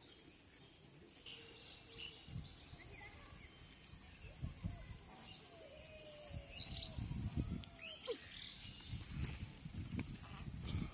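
Rural outdoor ambience with birds chirping and calling now and then over a steady high hiss. From about four seconds in, repeated low rumbling bumps on the microphone are the loudest sound.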